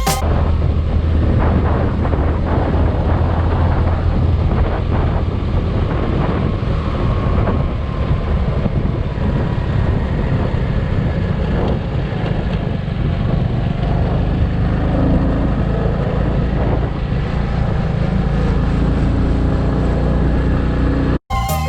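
Motorcycle on the move: a steady engine drone mixed with heavy wind rushing over the microphone. It cuts off suddenly near the end.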